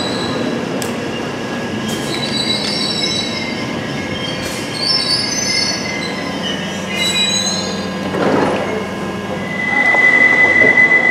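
London Underground 1972 Stock train moving slowly, its wheels squealing in several shifting high tones, with an occasional clank. Near the end one steady high squeal takes over and grows louder.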